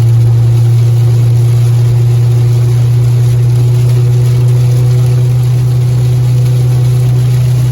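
Steady low drone of a pickup truck driving, engine and road noise heard from inside the cab, with a faint steady whine above it.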